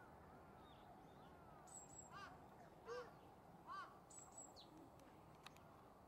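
Faint birds calling: three short arched calls about three quarters of a second apart in the middle, with pairs of high thin chirps just before and after them.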